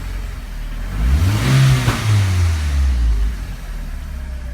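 Car engine idling, not yet warmed up after a cold start, with one blip of the throttle about a second in: the revs climb and drop back to idle.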